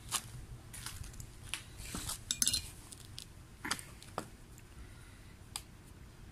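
A scattering of light metallic clinks and knocks, with the loudest cluster a little over two seconds in: metal gear being handled.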